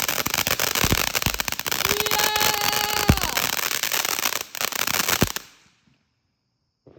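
Consumer ground firework going off with dense crackling and a few louder bangs. It stops abruptly about five and a half seconds in as its last round burns out.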